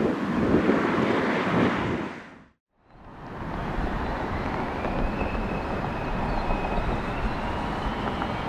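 Jet airliner engine noise fades out about two and a half seconds in. A new stretch of jet engine noise then fades in, carrying a faint high whine that rises slightly.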